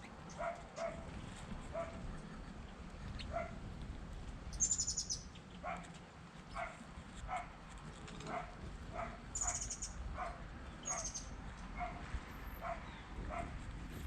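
A dog barking faintly in short, repeated barks, roughly one a second, with three brief high-pitched bird chirps in between.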